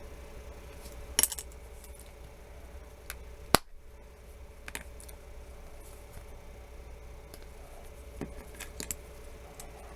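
Scattered small, sharp clicks and ticks of a prying tool working against a phone's glued screen and frame as the screen is worked loose, the sharpest click about three and a half seconds in.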